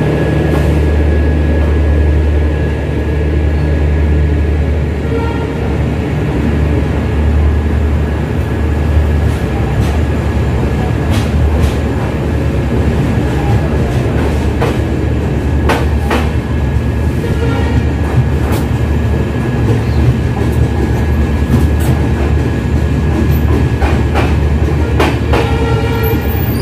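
Shatabdi Express passenger coach rolling out of a station and gathering speed: a steady low rumble of running gear, with irregular sharp clicks of the wheels over rail joints that come more often in the second half.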